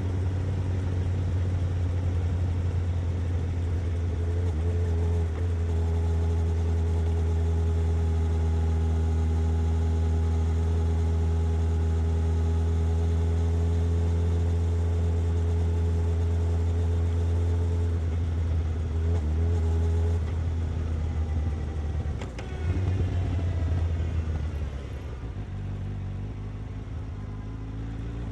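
Suzuki GSX-S750's inline-four engine and exhaust running at a steady cruise. About three-quarters of the way through the pitch drops as the bike slows, then begins to rise again as it picks up speed at the end.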